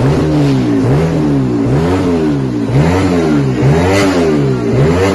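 A vehicle engine being revved again and again, its pitch climbing and dropping about once a second.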